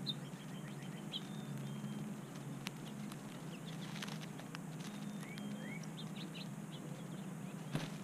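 Birds chirping in short high calls, with a couple of rising notes about midway, over a steady low hum. A few sharp clicks come from red-winged blackbirds pecking among sunflower seed hulls close by, the loudest near the end.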